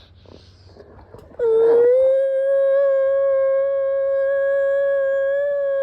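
A siren wail sounded as a severe storm warning. It starts about a second and a half in with a short rise, then holds one steady pitch and begins to dip near the end.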